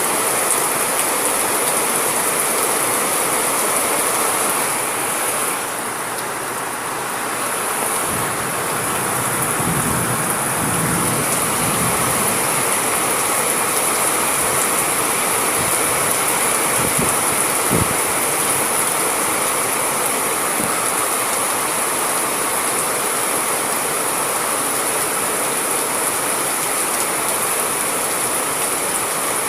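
Steady heavy rain, easing briefly about six seconds in, with a few low rumbles and thuds between about eight and eighteen seconds in.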